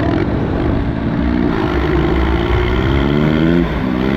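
Diesel garden tractor engine revving up: its pitch climbs steadily for about two seconds, dips briefly near the end, then comes back up and holds high.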